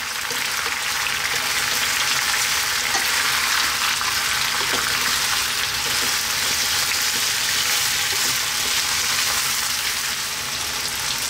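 Chicken pieces, potato chunks and diced onion sizzling steadily in hot oil in a frying pan, stirred now and then with a wooden spoon.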